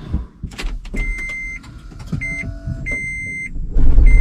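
High-pitched electronic beeps from a 2013 Toyota Prius v, sounding several times with uneven lengths, as the car is started; near the end its 1.8-litre four-cylinder petrol engine starts with a sudden, loud low rumble.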